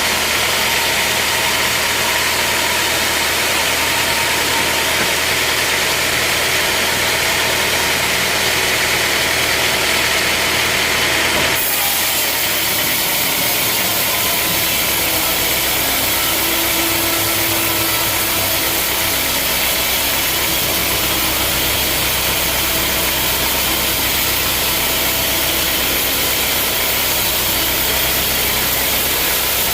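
Sawmill machinery running steadily with a loud mechanical drone. The noise changes abruptly about a third of the way through, and a lower hum sets in shortly after.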